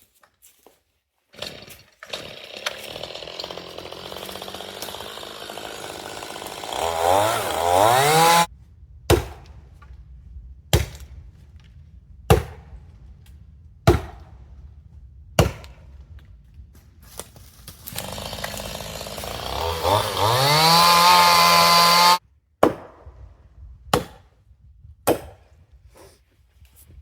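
Chainsaw running at low speed, then revved up high and cut off sharply, twice. Between the two runs come a series of sharp knocks about a second and a half apart.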